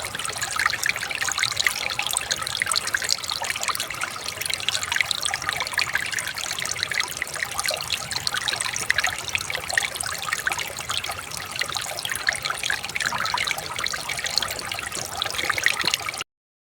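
River water trickling and babbling steadily, a dense run of small splashes, cutting off suddenly near the end.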